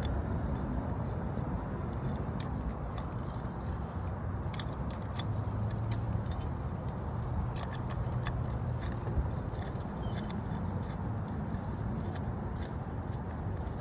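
Light metallic clicks and clinks of a hand wrench working the oil-filter cover bolts on a Kawasaki Bayou 220 ATV, thickest in the middle, over a steady low rumble.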